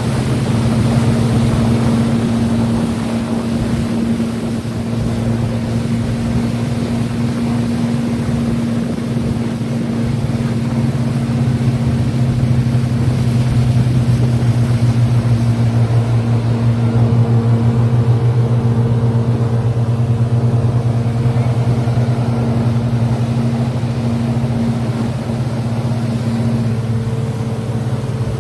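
Motorboat engine running steadily under way, a constant low hum over the rush of wind and water.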